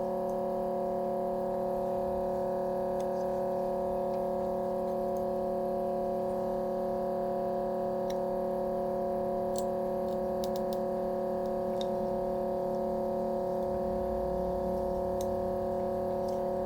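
A steady hum made of several tones, with a few faint ticks near the middle.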